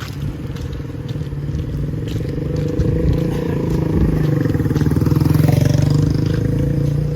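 A motor vehicle's engine passing close by on a street, growing louder to a peak about five seconds in and then easing off.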